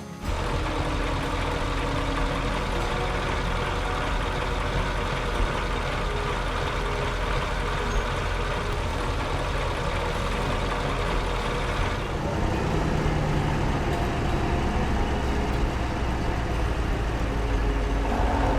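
Heavy vehicle engine running steadily, with a deep rumble; its sound shifts about two-thirds of the way through, turning lower and more humming.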